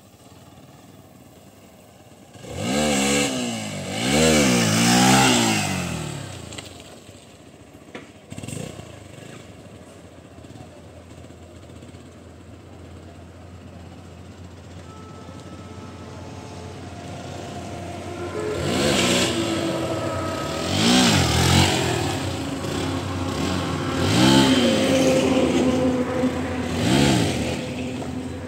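Hero XPulse 200 4V's single-cylinder engine revved hard in short bursts for wheelie attempts: two or three revs a few seconds in, a quieter stretch, then four more revs in the second half, getting louder as the bike comes closer.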